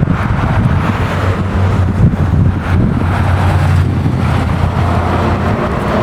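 A classic car's engine running loud and steady at low speed, its note holding without revving up or down.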